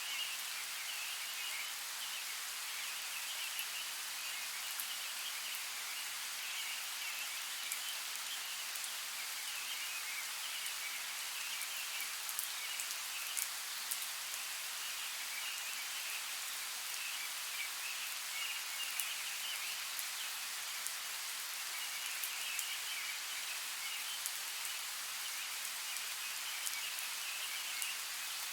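Steady rain hiss with scattered sharper ticks of individual drops.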